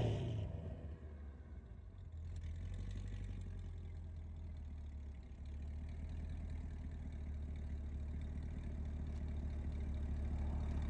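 Straight-piped Corvette C8 V8 dropping back from a rev in the first second or so, then idling steadily with a low, even hum.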